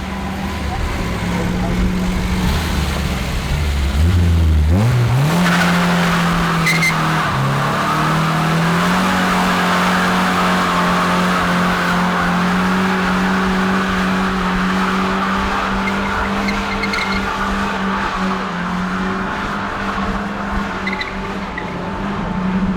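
A car's engine rises sharply in revs about five seconds in, then is held high and steady while its tyres spin and squeal, as in a burnout.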